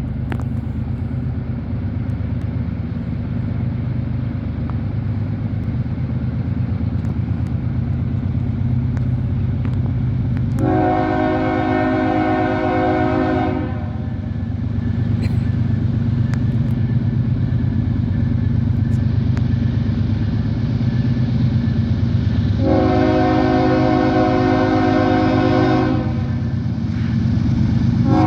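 CSX freight train's GE ES44AH diesel locomotives running with a steady low drone, the lead unit sounding its horn in two long blasts of about three seconds each, and a third blast starting near the end.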